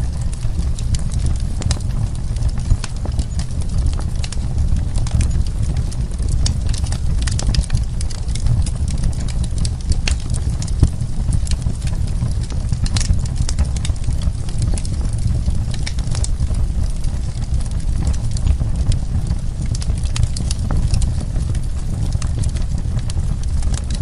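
Wood fire burning in a fireplace: dense, irregular crackles and sharp pops of the burning wood over a steady low rumble.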